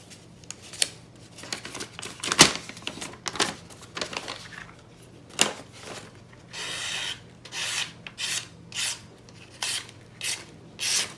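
Spyderco PM2 knife blade test-cutting receipt paper: a few sharp clicks and taps at first, then a run of short noisy slicing strokes through the paper in the second half.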